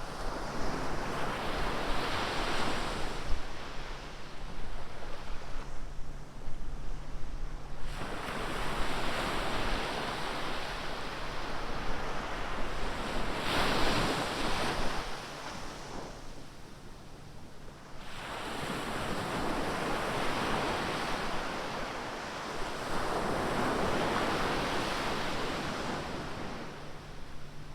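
Ocean surf breaking on a beach, with waves washing in and drawing back in slow swells every few seconds, and some wind on the microphone.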